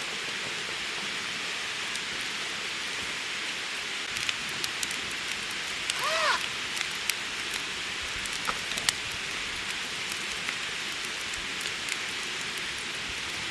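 Steady hiss like rain, with scattered light ticks and one short rising-and-falling call about six seconds in.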